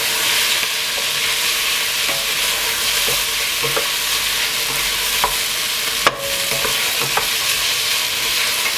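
Garlic and ginger paste sizzling steadily in hot oil with softened onions and peppers in a stainless steel saucepan, being stirred with a wooden spoon. The paste is still cooking out, its sizzle not yet died down. A few sharp knocks sound as the spoon strikes the pot.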